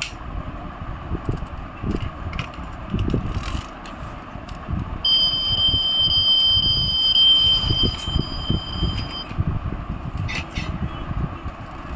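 A steady, high electronic beep tone sounds for about four seconds, starting about five seconds in, over continuous low rumbling and knocking.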